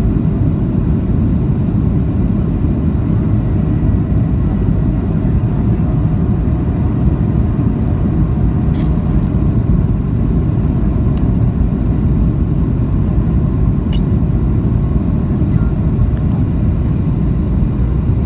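Steady low roar of a Boeing 737-800's CFM56 engines and airflow heard inside the passenger cabin. Two brief clicks come about nine and fourteen seconds in.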